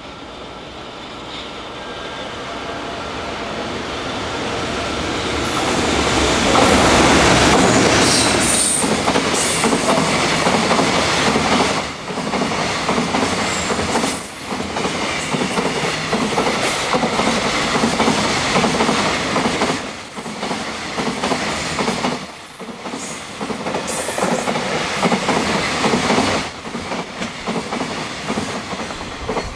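An EF210 electric locomotive hauling a freight train passes at high speed. The noise builds as the train approaches and is loudest as the locomotive goes by about seven seconds in. The wagons that follow keep up a continuous rumble and wheel clatter, with brief dips, until the train has passed at the very end.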